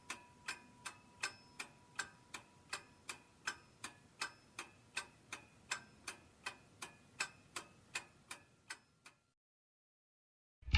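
A clock ticking steadily, a little under three ticks a second, stopping abruptly about nine seconds in.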